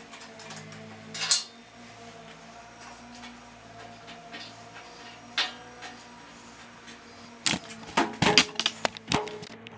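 Metal clinks and knocks of hand tools and bolts on the steel of a Thunderbolt siren as its horn is unbolted from the chopper: a sharp clink about a second in, scattered light taps, then a quick flurry of clinks near the end.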